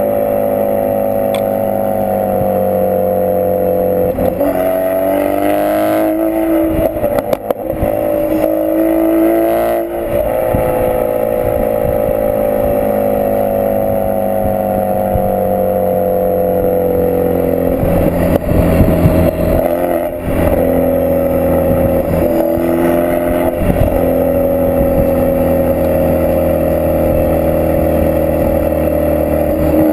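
Ford Focus RS mk3's turbocharged 2.3-litre four-cylinder running through a Milltek Sport decat, non-resonated exhaust as the car drives. The note drones steadily with its pitch sinking slowly, shifts abruptly a few times, and is broken by short crackles around those changes.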